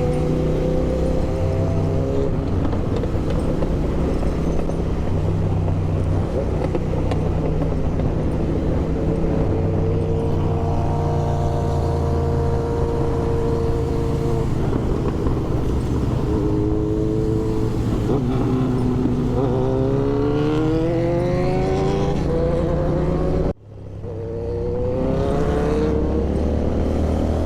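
Motorcycle engine running on the move, revving up through the gears several times, its pitch climbing with each pull. About 23 seconds in the sound drops out abruptly for a moment, then returns with the engine pulling again.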